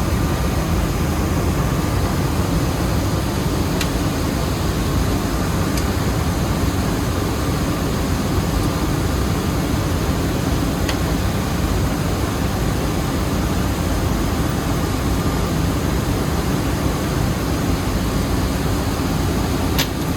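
Rice mill machinery running with a loud, steady, dense noise. A faint thin whine sits over it, and a few light ticks come through.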